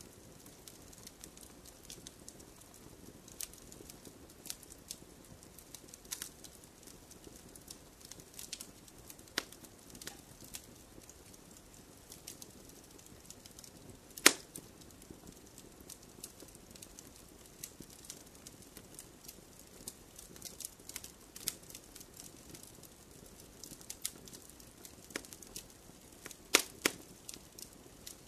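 Wood fire crackling in a fireplace: irregular sharp pops and snaps over a low hiss, with a loud pop about halfway through and a couple of louder ones near the end.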